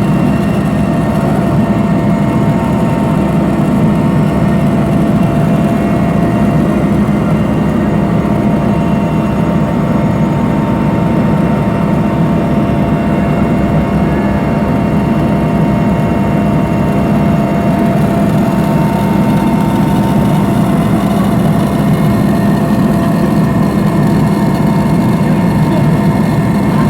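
Helicopter in flight heard on board: a loud, steady drone of engine and rotor with constant whining tones over it.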